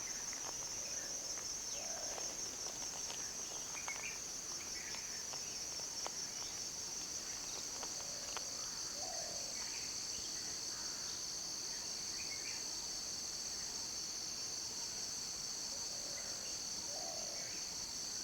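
Steady, high-pitched insect chorus that drones without a break, with a few faint short calls and clicks scattered underneath.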